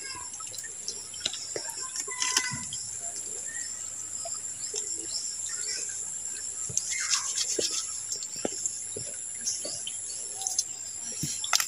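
Birds chirping now and then in the surrounding forest, with one falling call about seven seconds in, over a steady high whine.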